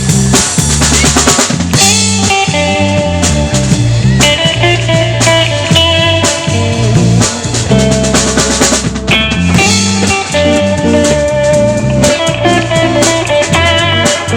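Live rock band playing an instrumental passage: drum kit with a steady beat, electric guitar lines and bass.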